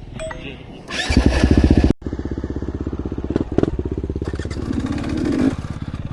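Dirt bike engine running. It gives a loud burst about a second in that cuts off abruptly, then settles into an even, rapid chug at low revs, rising slightly just before the end.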